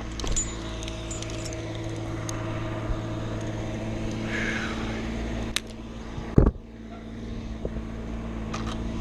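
An engine idling steadily, with a sharp click about five and a half seconds in and a single louder knock just after.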